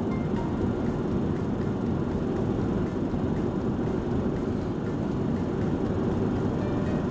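Steady low road and engine rumble inside a moving car's cabin, even in level throughout.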